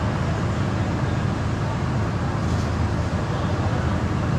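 Steady road noise of a car driving on city streets: a continuous low rumble of engine and tyres with traffic around it.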